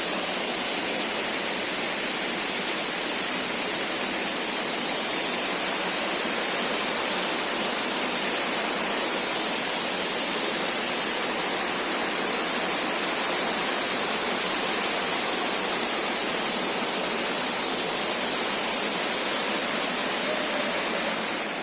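A waterfall about 40 metres high, its falling water making a steady, even rush that fades slightly near the end.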